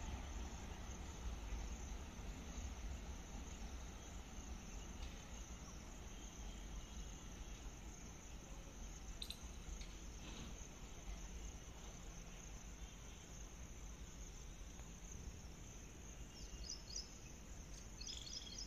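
Faint low rumble of a departing express train receding into the distance, slowly fading, under a steady high buzz of insects. A few short bird chirps come near the end.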